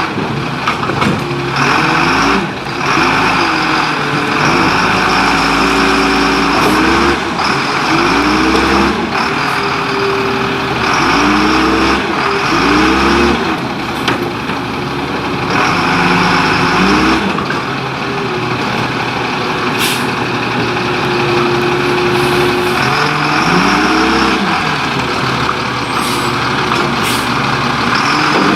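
Leach Curbtender rear-loader garbage truck working, its engine revving up and falling back again and again, with hissing air-brake releases and sharp clanks between.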